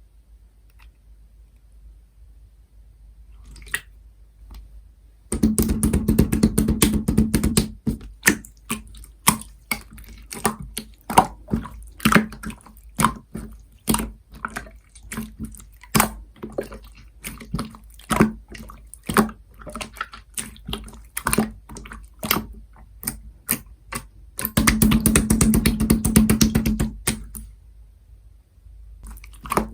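Blue marbled slime being squished and pressed by hand: wet clicks and pops about twice a second. Two spells of dense, rapid crackling, about five seconds in and again near the end. The first few seconds are quiet.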